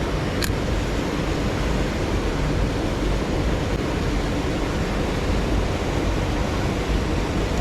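Mountain stream water rushing steadily, with a single short click about half a second in.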